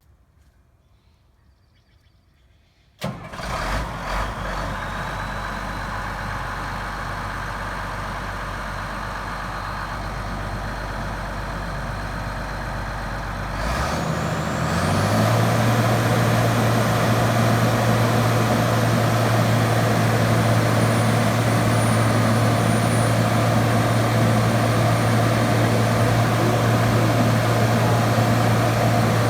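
Morgan SX706SB grapple skidder's diesel engine starting about three seconds in and settling into a steady idle. About halfway through it revs up to a higher steady speed and holds there.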